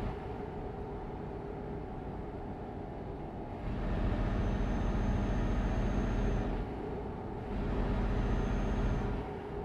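A road vehicle on the move: a steady running hum, with two louder rushing surges a few seconds long, in the middle and near the end. A thin high whine rides on each surge.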